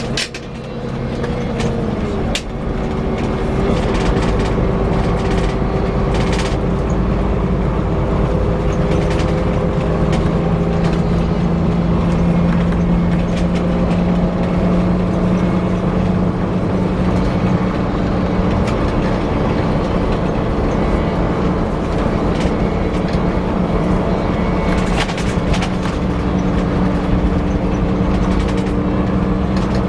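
Scania K340 coach on the move, with a whirring whine held over the engine and road noise; the whine's pitch drifts slowly. The sound dips briefly just after the start, then runs on steadily.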